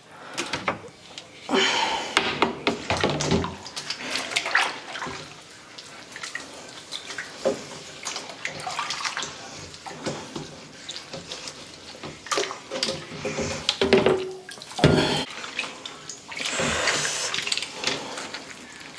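Dishes being washed by hand at a kitchen sink: tap water running and splashing in uneven bursts, with short knocks of containers being handled.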